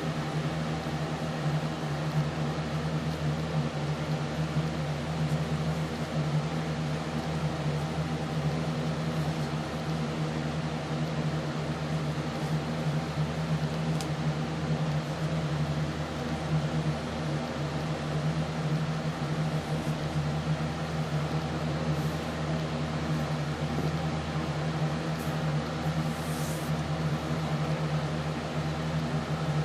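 A steady mechanical hum with a strong low tone and a noisy hiss over it, unchanging throughout.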